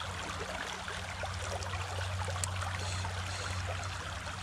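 Creek water running steadily, with a steady low hum underneath.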